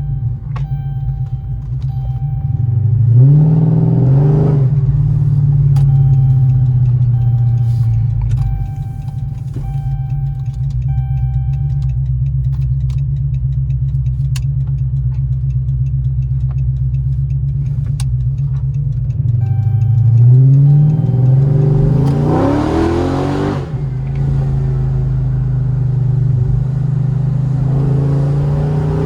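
Modified Chrysler SRT engine and exhaust under way, climbing steeply in pitch as the car accelerates hard about three seconds in and again about twenty seconds in, with a steady drone while cruising in between.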